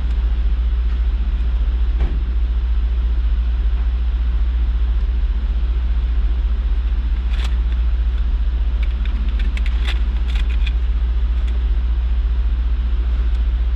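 Jaguar XK8's 4.0-litre V8 idling steadily as a deep, unbroken rumble heard inside the cabin, with a few light clicks midway through.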